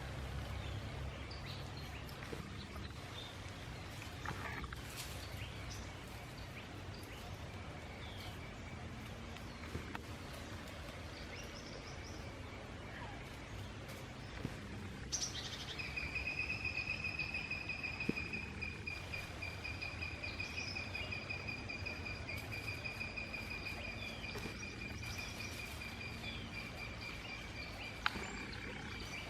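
Outdoor natural ambience with a steady low hum and faint background noise, a few soft clicks, and a faint high tone; about halfway through a long, even, high trill starts and keeps going.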